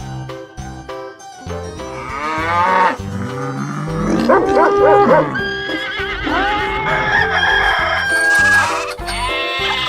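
Recorded farm animal calls, several different cries one after another, over background music with a steady beat.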